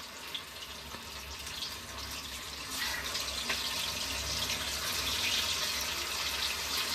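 Chicken 65 pieces sizzling as they fry in hot oil, with a steady crackling hiss that grows louder about three seconds in.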